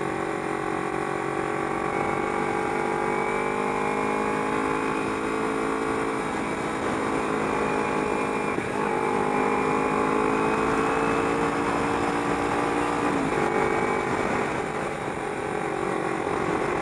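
Kawasaki Ninja 250R parallel-twin motorcycle engine running under way. Its pitch climbs slowly, steps up about a third of the way in and drops about three-quarters of the way through, as the rider changes speed or gear.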